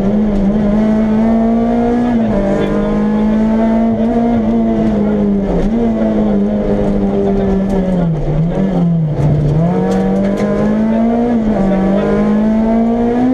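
Renault Clio Williams rally car's 2.0-litre four-cylinder engine running hard, heard from inside the cabin. Its pitch keeps rising and falling back every two seconds or so, and it dips lowest about eight to nine seconds in before it climbs again.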